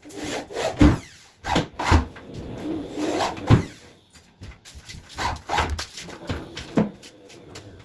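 Wooden panels being handled in almirah carpentry: irregular knocks and thuds of wood on wood, with short scraping rubs between them.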